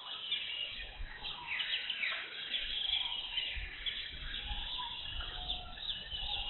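Several birds chirping and calling at once in a busy jungle chorus, with an uneven low rumble underneath through the middle.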